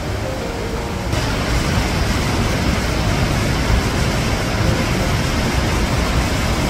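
Steady rush of a mountain stream's water flowing over rocks, a dense even roar that gets louder and brighter about a second in.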